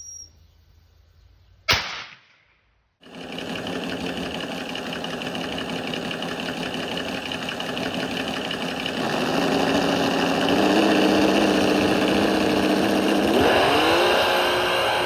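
One sharp bang from the firecracker cannon, then about a second of quiet. After that a steady machine-like whirring starts abruptly and grows louder, with a tone that rises in pitch near the end.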